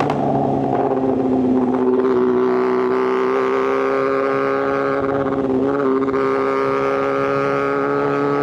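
Inline-four superbike engine running under steady throttle at a nearly constant pitch that creeps slowly upward, with a brief dip about six seconds in.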